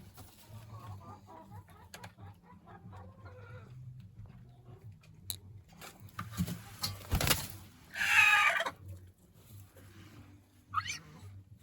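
Domestic chickens clucking, with one louder, harsher call about eight seconds in and a short rising call near the end.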